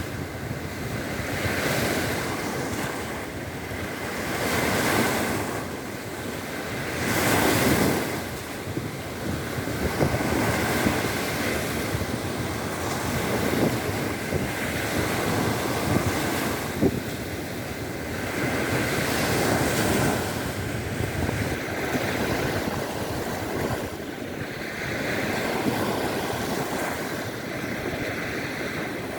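Waves breaking and washing on a shore, the surge swelling and falling every two to three seconds, with wind.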